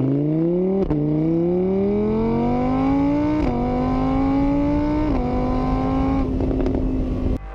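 A car engine accelerating through the gears: the pitch climbs, dips back at about three gear changes and then holds steady before cutting off just before the end.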